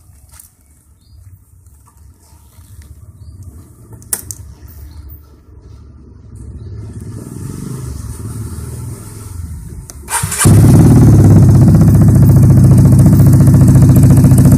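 Vespa Primavera scooter engine running through a custom Chuenk IMS exhaust with its dB killer removed: faint and low at first, then about ten seconds in it suddenly becomes very loud and steady, a deep exhaust note, and cuts off abruptly at the end. Without the dB killer the exhaust is too loud.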